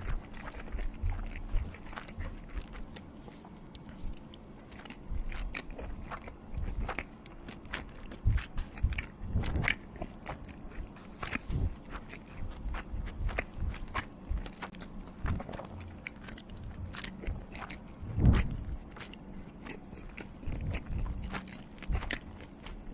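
A person eating close to the microphone: irregular biting, crunching and chewing, with wet mouth clicks and a heavier bump about 18 seconds in.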